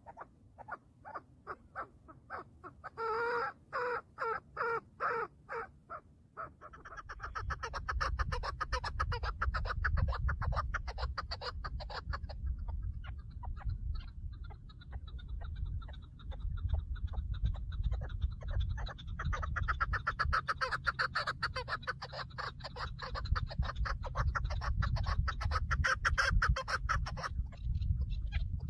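Chukar partridges giving rapid repeated clucking calls, a few seconds of separate clucks that build about seven seconds in into continuous fast chattering.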